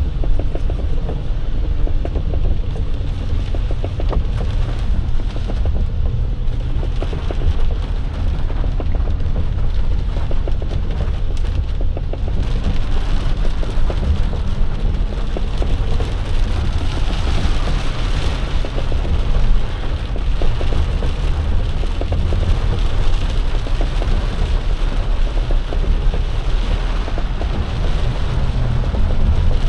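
Heavy rain pelting the box truck's cab over the steady low rumble of the truck in slow traffic. The hiss of the rain grows stronger about halfway through.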